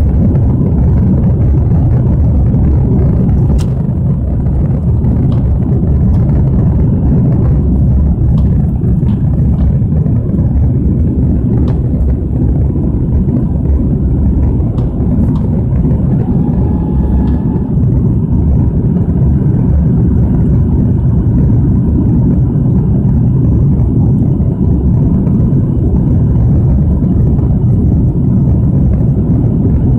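Steady low rumble of an RAF Lockheed TriStar jet airliner's engines and airflow, heard from inside the cabin during the take-off.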